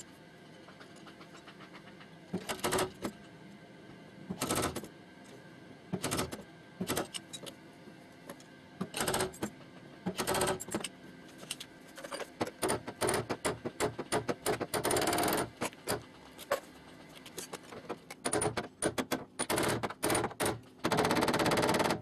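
Irregular taps and knocks on a car door's sheet-steel panel during dent repair. Sparse at first, they come in quick dense bursts in the second half, and a harsher continuous stretch of about a second follows near the end.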